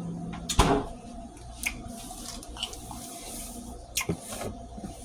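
A few sharp knocks and clinks of things being handled in a kitchen, the loudest about half a second in and a couple more near the end. A steady low hum cuts off at the first knock.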